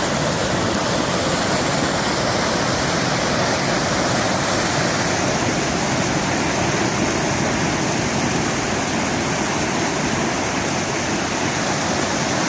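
Kali Gandaki river in flood: a steady rush of fast, churning water.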